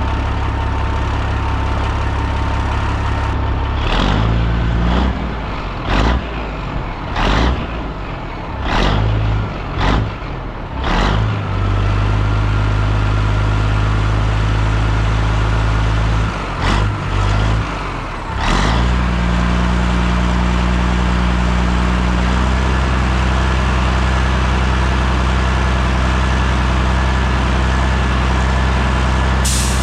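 1981 Peterbilt 359's Caterpillar diesel engine running while it warms up after a cold start. It is revved in a string of short throttle blips from about four seconds in to about eighteen seconds, then settles to a steady, faster idle. A brief hiss comes near the end.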